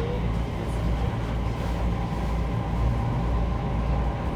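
Inside a JR East E231-1000 series electric commuter train car: a steady low rumble and hum.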